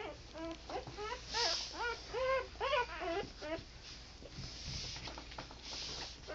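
Newborn pit bull puppies, less than a day old, squealing and whimpering: a quick run of short, high, rising-and-falling squeaks that dies down after about three and a half seconds.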